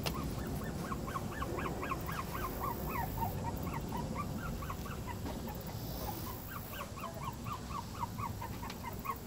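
A bird calling over and over in short chirps that rise and fall in pitch, about three or four a second, with a brief pause about five seconds in.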